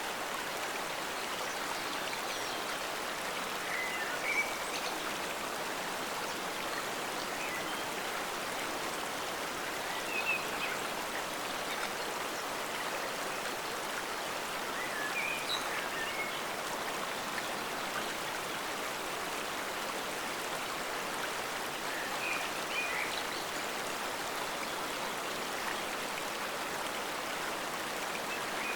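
Forest stream flowing: a steady rush of running water. A few brief, brighter sounds rise above it now and then.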